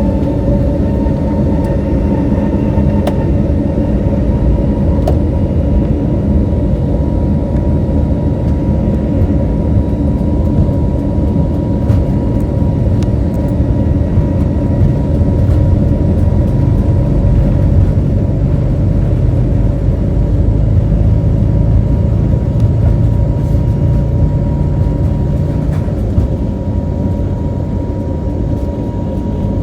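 Airliner jet engines at takeoff thrust, heard inside the cabin. The engine whine rises and then settles into a steady high tone over a heavy rumble from the takeoff roll, and the rumble eases slightly near the end.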